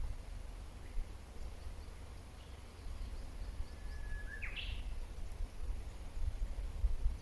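Wild birds calling, with faint high chirps and, about halfway through, one clearer call: a short level note that breaks into a quick rising sweep. A steady low rumble runs underneath.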